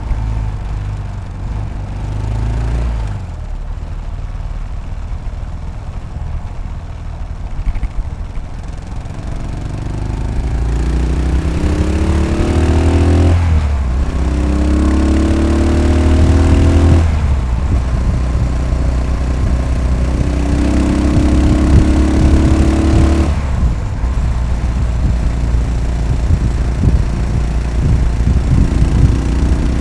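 Yamaha SR500's single-cylinder four-stroke engine under way: running easy at first, then pulling up through the gears from about a third of the way in, its pitch rising in three climbs cut by gear changes, then settling into a steady cruise.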